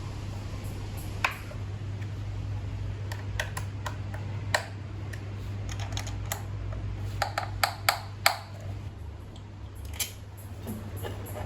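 Scattered light clicks and taps, a quick run of about five close together a little past the middle, over a steady low hum.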